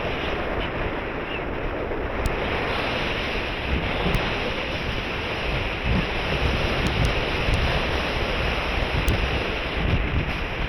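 Wind buffeting the microphone: a steady rushing noise with gusty low rumbles.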